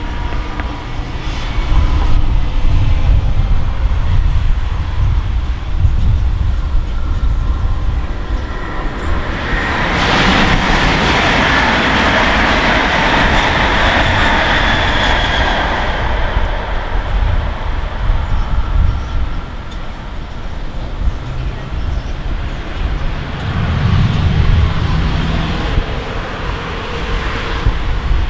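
A train passes on a nearby line. Its rolling noise swells about ten seconds in, carries a few high steady tones, and dies away by about sixteen seconds. A low rumble runs underneath throughout.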